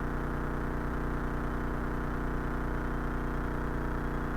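Cessna 172's piston engine and propeller droning steadily at reduced approach power, an even hum with no change in pitch.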